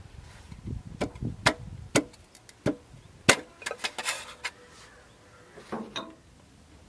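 Irregular sharp knocks and clicks of metal engine parts and tools being handled during engine assembly, with a brief scrape around four seconds in.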